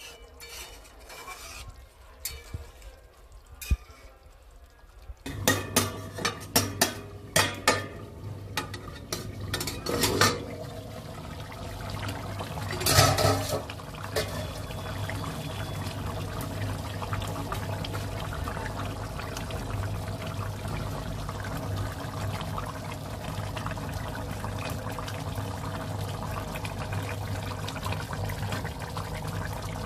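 Metal utensil clinking and scraping in a cooking pot, with a quick run of clinks about five seconds in, then a steady cooking hiss over a low hum.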